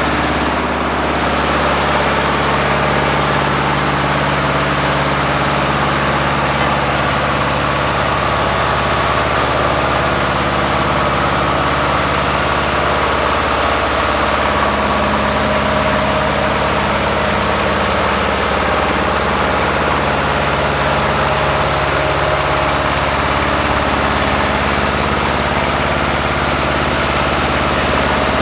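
Ford 1700 compact tractor's diesel engine running steadily at idle.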